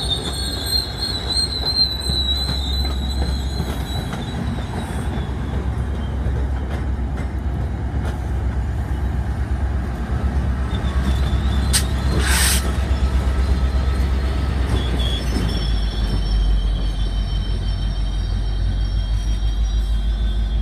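MBTA commuter train passing close by: high, thin wheel squeal over a steady rumble of wheels on the rails, with a short hiss about twelve seconds in. Near the end the diesel locomotive's low engine drone swells as it goes by, and the wheel squeal comes back.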